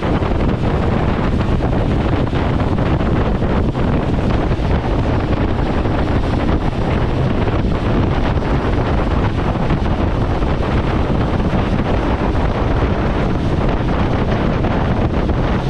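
Fast fishing boat under way: steady wind rushing over the microphone, mixed with engine and water noise.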